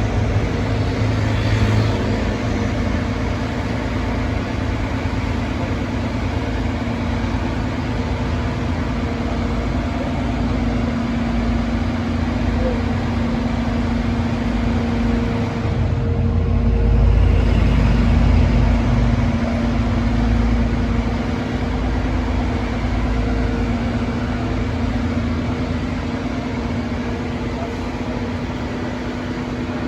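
Crane truck's engine running steadily with a constant hum over a low rumble, the rumble swelling for a few seconds a little past the middle.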